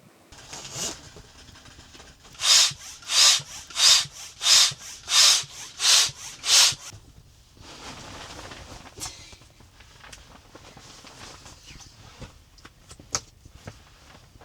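Hand saw cutting wood: seven loud, even strokes about two-thirds of a second apart, with quieter return strokes between them. After the strokes, fainter rustling and a few sharp clicks.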